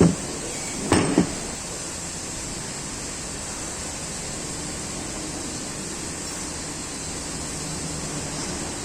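A knock, then two quick knocks about a second later, over a steady hiss-like noise.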